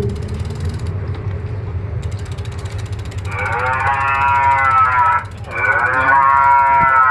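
A vehicle horn sounds two long blasts, each close to two seconds, with a short break between them, over a steady low engine rumble.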